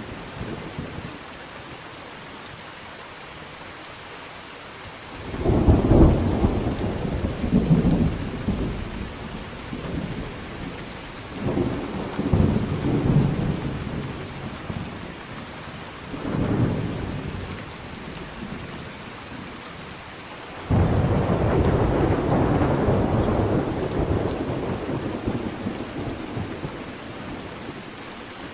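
Steady rain hissing with rolling thunder: several rumbles swell and fade in the first half, then a sudden loud clap about two thirds in that rolls on and slowly dies away.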